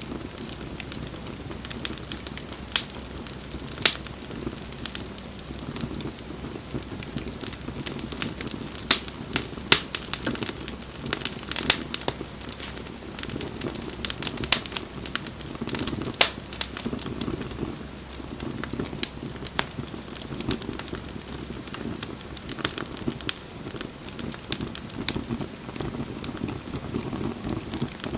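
Wood campfire burning: a steady low rush of flames with irregular sharp crackles and pops of burning firewood.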